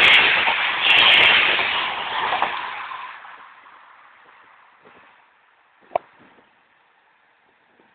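Rail vehicle passing close by at the level crossing, its loud noise fading away steadily over the first three seconds, followed by a single sharp click about six seconds in.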